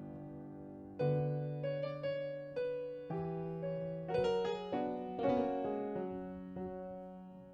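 Solo piano playing a slow, gentle piece: chords struck and left to ring, a new note or chord every half second or so, with the last chord fading away near the end.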